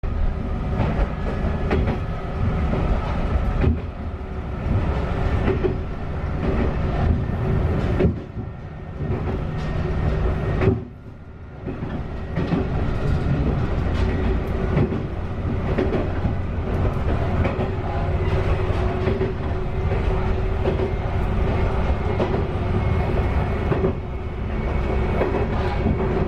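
Tenryu Hamanako Railroad diesel railcar running, heard from inside the car: steady low rumble of the engine and wheels with rail-joint clatter. The noise drops away sharply for about a second around eleven seconds in, then resumes.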